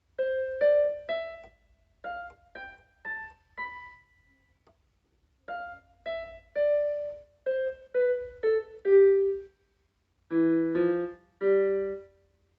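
Piano melody played as single notes in short phrases with pauses between them, closing with three fuller chords about ten seconds in.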